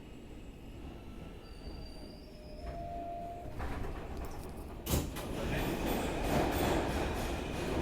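Inside an R160B subway car: low rumble at first, then about halfway the running noise rises sharply, with a loud knock, and the wheels go on clicking over the rail joints.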